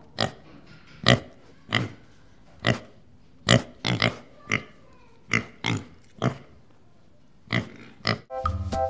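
Domestic pigs grunting: about a dozen short grunts at uneven intervals, roughly one every half second to second.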